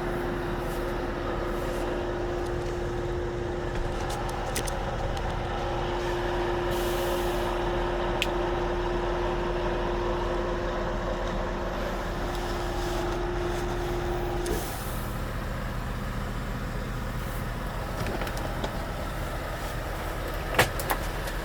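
Scania S730 truck's 16-litre V8 diesel idling steadily, with a steady whine that cuts off about two-thirds of the way through. A couple of short hisses of air and a few light clicks sound over it.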